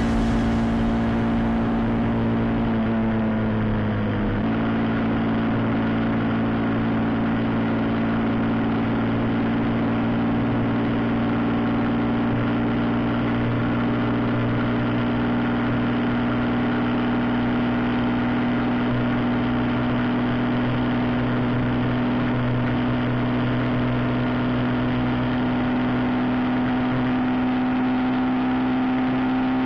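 Motorcycle engine running at a steady cruising speed, heard close from a camera on the bike, over a steady rush of wind and road noise. The engine note sags and changes abruptly about four seconds in, then holds steady and edges up near the end.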